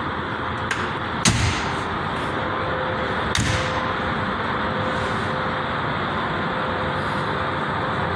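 Steady outdoor noise with two sharp knocks about two seconds apart, the first louder.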